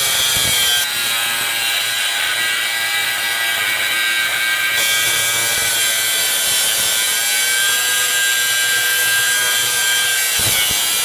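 Small angle grinder cutting through the minibike's rear fender, a loud steady whine with grinding hiss.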